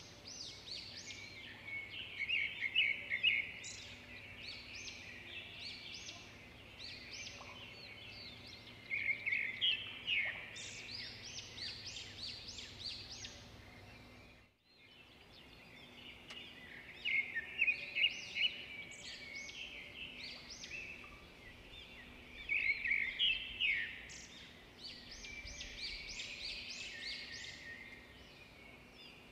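Small birds chirping and twittering in quick bursts of high chirps, with a brief break about halfway through.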